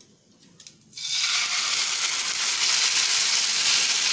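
Juicy mashed pineapple dropped into hot mustard oil in a frying pan, setting off a sudden, loud, steady sizzle about a second in as it is stirred with a wooden spatula.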